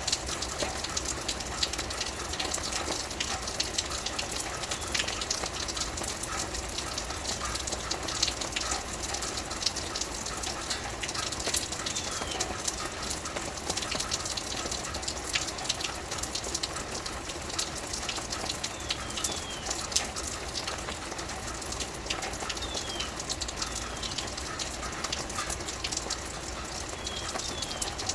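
Steady rain pattering, a dense patter of drops. A bird gives short falling chirps now and then in the second half.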